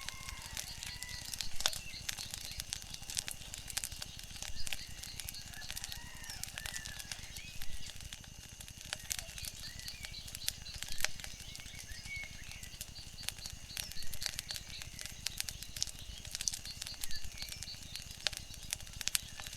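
Wood fire crackling, with frequent sharp pops and snaps over a steady hiss, and faint chirping calls in the background.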